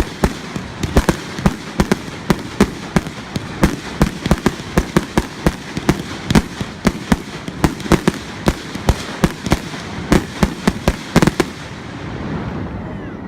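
Fireworks going off: a rapid, irregular run of sharp bangs and cracks, several a second, that thins out after about eleven seconds.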